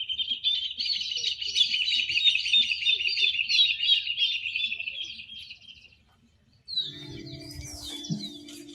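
A songbird singing a rapid, run-on chirping song for about six seconds. After a short break, scattered bird chirps return over a steady low tone.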